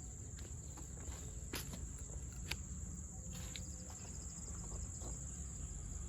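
Insects singing in one continuous high-pitched drone, with a few sharp clicks and a steady low rumble underneath.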